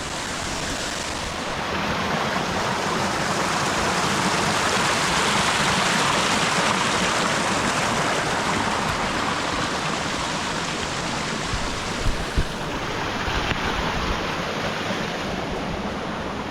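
Steady rush of a waterfall's falling water, swelling slightly mid-way, with a couple of brief low thumps about twelve seconds in.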